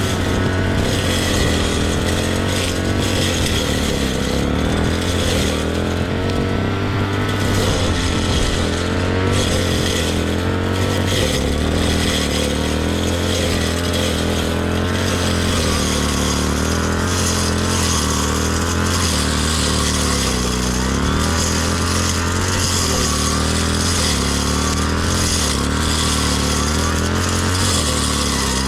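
Engine of a grass-cutting machine running steadily under load, its pitch dipping slightly about twelve seconds in.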